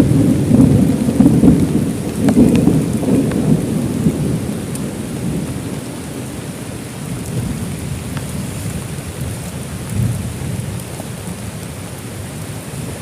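Thunder rumbling, loudest over the first few seconds and then dying away, with a smaller rumble about ten seconds in. Steady heavy rain falls throughout, with scattered drop ticks.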